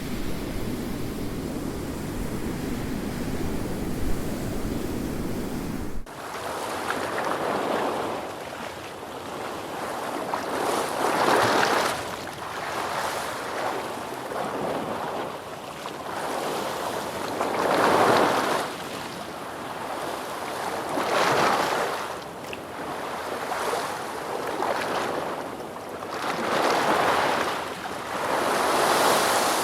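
Ocean surf: for about six seconds a steady low rumble, then a sudden cut to waves breaking and washing back, swelling and fading every three to four seconds.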